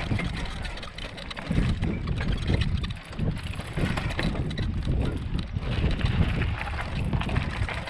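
Wind buffeting the microphone in uneven low rumbles that swell and drop every second or so.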